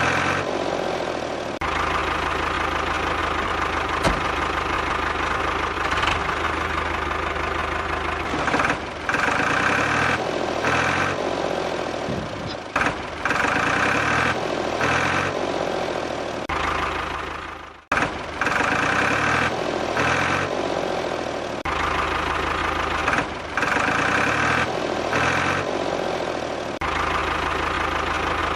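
Tractor-style engine idling with a knocking beat. It cuts out sharply about two-thirds of the way through and starts again at once, as if on a loop.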